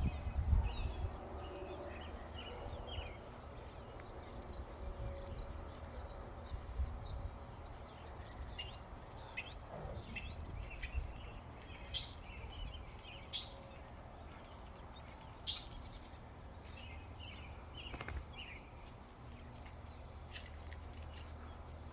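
Birds chirping in short, scattered calls over a low, steady background rumble, with a low thump near the start.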